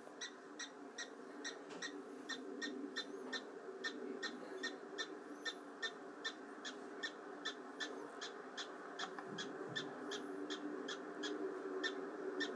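Black-tailed prairie dog giving a steady run of short, sharp barks, about three a second: its repeated alarm call.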